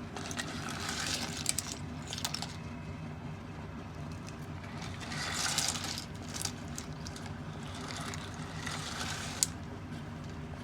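Clam shells rattling and scraping against one another in three bursts with sharp clicks, over a steady low hum.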